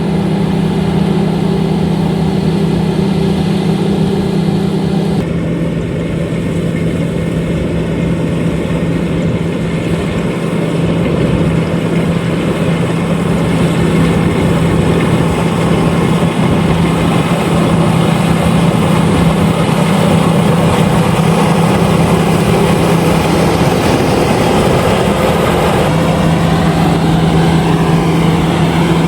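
LOVOL RG130EVO rice combine harvester running steadily, a loud continuous engine and machinery hum that shifts slightly in pitch about five seconds in.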